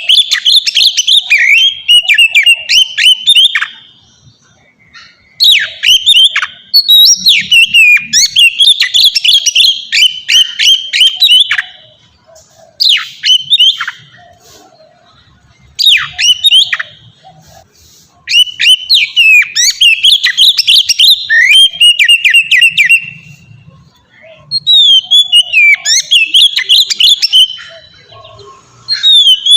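Oriental magpie-robin singing loud, full-voiced song. It comes in repeated phrases of quick, varied whistled notes and trills, each phrase lasting a few seconds, with short pauses between them.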